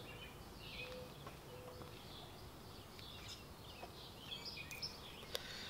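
Birds chirping faintly in short calls, with a few light clicks.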